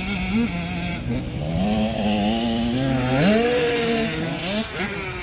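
Several motocross bikes revving, their engine pitches rising and falling and overlapping, with one climbing sharply about three seconds in.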